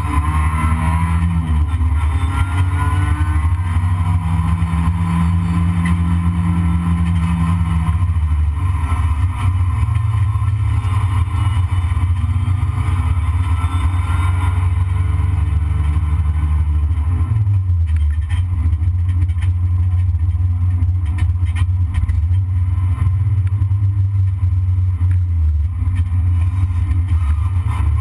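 Toyota Corolla race car's engine heard from inside the cabin, running hard with its pitch rising and falling as the car accelerates and slows. There is a clear drop in pitch about two-thirds of the way through, followed by a few short knocks and rattles.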